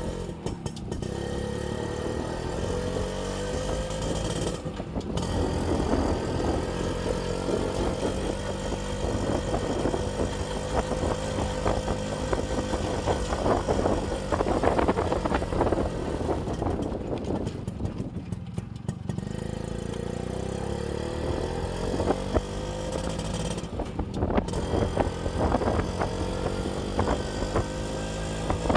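Kawasaki HD3 125cc two-stroke single-cylinder motorcycle engine running while the bike is ridden. The engine note climbs and levels off several times as it pulls through the gears, dropping away briefly a few times.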